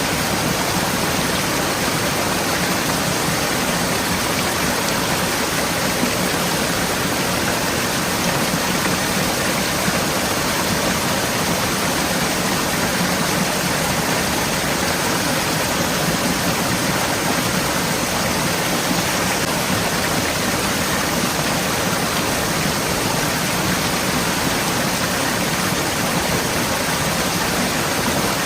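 Forest stream flowing steadily over rocks, a constant rushing of water.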